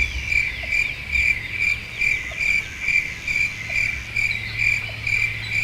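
Cricket chirping: short high-pitched chirps repeated evenly, about two and a half a second, over a steady low hum.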